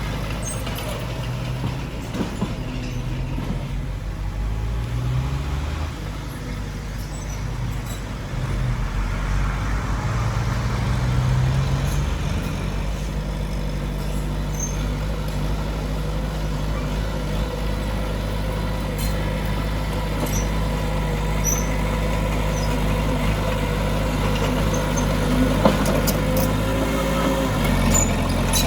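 Heavy diesel earthmoving machinery running steadily, its engine note rising and falling a few times as it works under load, with scattered light clanks.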